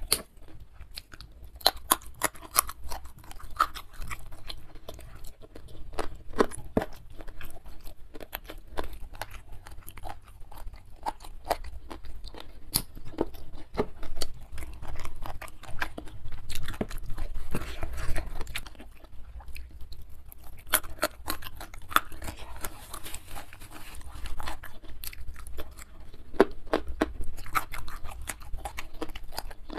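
A person chewing and crunching young jengkol with chili sambal, with many irregular crisp crunches and wet mouth clicks.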